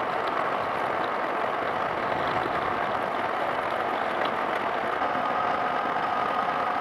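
A workshop power tool running steadily with a grinding hiss, with a steady whine growing clearer about five seconds in.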